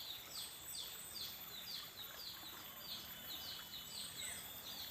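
Faint bird calls: a steady series of short, high chirps, each sliding downward, about three a second, over a faint steady hiss.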